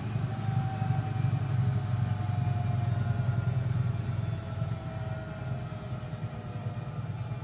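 Eudora Supernova EU 1001 washing machine winding down from its 1100 rpm final spin: a steady low rumble with a whine that slowly falls in pitch, getting quieter about halfway through.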